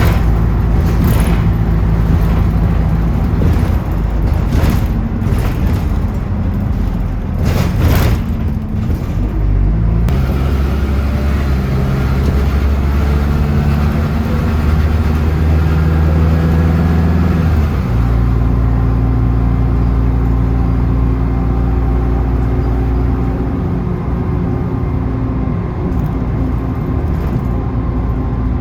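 City bus engine and road noise, heard from on board as the bus drives along. The engine note changes about ten seconds in and again a little past halfway, and there are a few short rushing noises in the first third.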